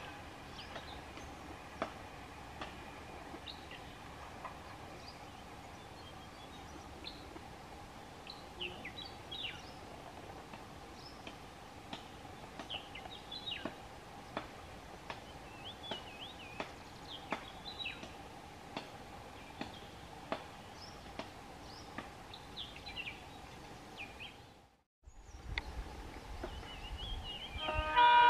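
Birds chirping repeatedly in short calls over a steady faint hum. Near the end, after a brief break, a low rumble sets in and a train horn starts to sound.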